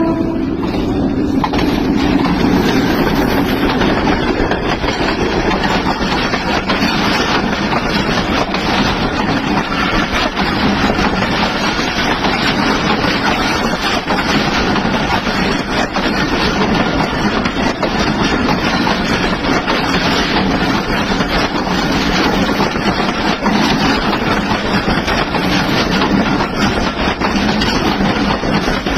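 Hazara Express train running: a steady, loud rumble and rush with no breaks, starting just after its horn cuts off.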